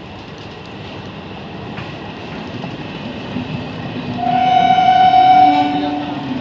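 MEMU electric local train running, its rumble growing louder, with one steady horn blast of under two seconds starting about four seconds in.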